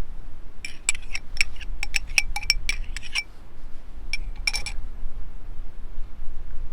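Glassware or dishes being handled, clinking in a quick run of light knocks that ring briefly, then two more clinks a little later, over a steady low rumble.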